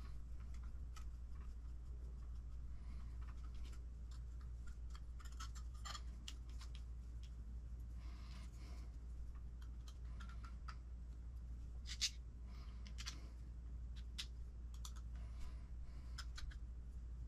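Scattered light clicks and short scrapes of small plastic and metal parts being handled and fitted during RC transmission assembly, with one sharper click about twelve seconds in, over a steady low hum.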